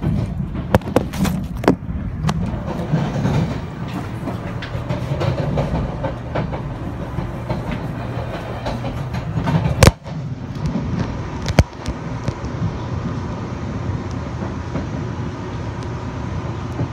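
Running noise inside a Puyuma tilting electric train's vestibule as it rolls into a station, with wheel clicks over rail joints and points. A sharp bang about ten seconds in is the loudest sound, and a second one follows a little under two seconds later.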